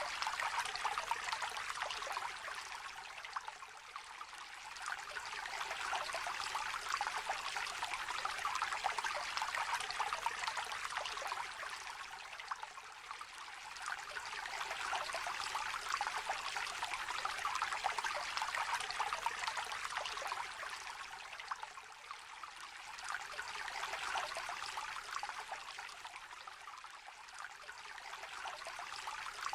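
Small river trickling and babbling in a steady rush, its loudness slowly swelling and easing every several seconds.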